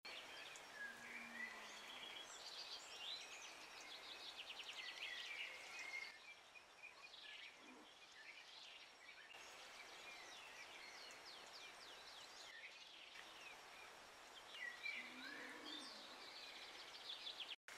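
Faint outdoor birdsong: several small birds chirping, with quick rapid trills in the first six seconds and scattered calls later.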